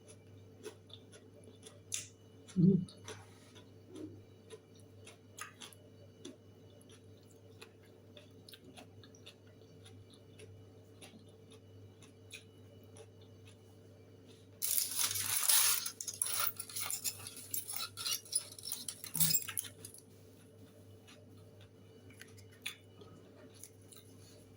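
Small objects being handled: scattered clicks and clinks, with a thump about three seconds in, over a low steady hum. About halfway through comes some five seconds of loud crinkly rustling.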